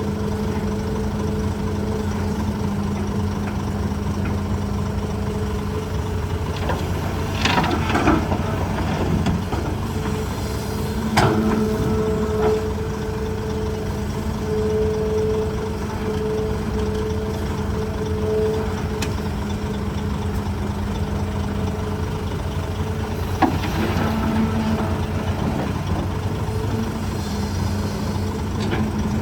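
Hitachi ZAXIS200 excavator's diesel engine running steadily. A cluster of clanks and scrapes comes about 8 seconds in, a single sharp knock about 11 seconds in, and more clatter about 24 seconds in, from the machine working in rock.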